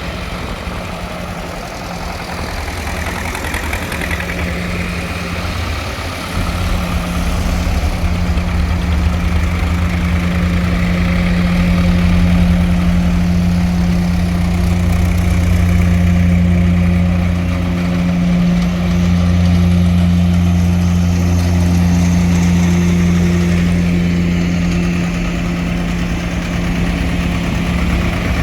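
Tractor engine running steadily at idle, a low even hum that gets louder about six seconds in and holds there.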